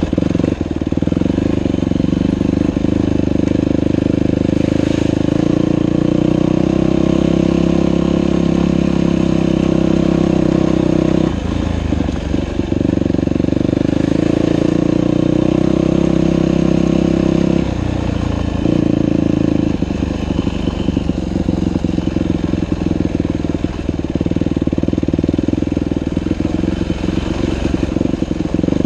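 Dirt bike engine running steadily on a trail ride. Its engine note drops briefly about 11 seconds in and again around 18 seconds, as the throttle is eased off, then picks up again.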